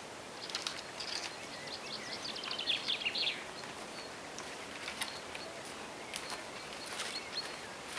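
A songbird singing a fast run of high, quickly repeated notes for about three seconds, followed by a few short, sharp chirps, over steady faint forest background noise.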